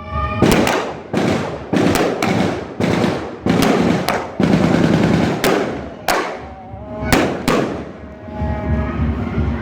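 Celebratory gunfire: a rapid string of loud shots, some coming in quick bursts, each trailing off in echo. The shots thin out after about seven and a half seconds.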